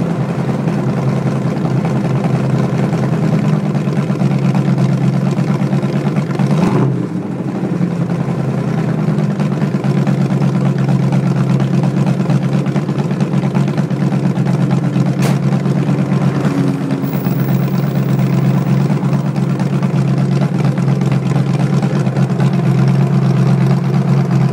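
AMC 360 V8 with a Lunati camshaft in a 1967 Rambler American, running steadily through dual exhausts with a choppy beat. The level dips briefly about seven seconds in, and there is one sharp click about halfway through.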